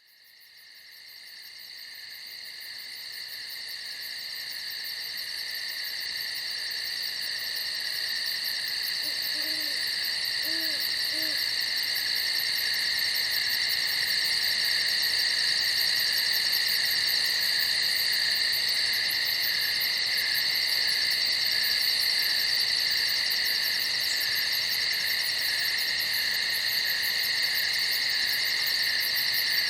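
Chorus of crickets chirping in a steady, dense high trill, fading in from silence over the first few seconds and then holding level.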